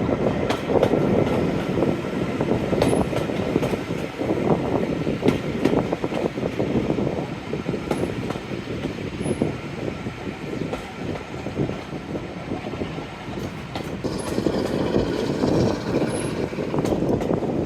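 Train hauled by Class 45 diesel locomotive 45108 running along the line: a continuous rumble with scattered wheel knocks, louder at the start and again near the end.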